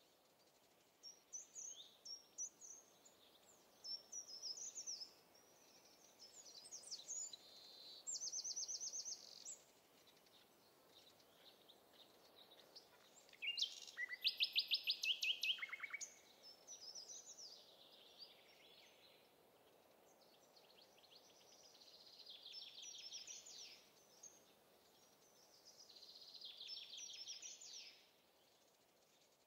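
Songbirds singing: a string of separate phrases of high chirps and fast trills, each lasting a second or two, with the loudest trill about halfway through.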